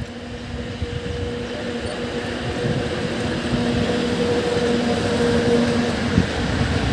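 EU07 electric locomotive hauling a passenger train, growing steadily louder as it approaches. A steady low hum carries a second, higher tone above it.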